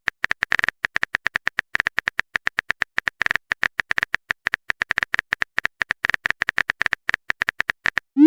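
Typing sound effect: a rapid, irregular run of keyboard clicks, several a second, as a message is typed out.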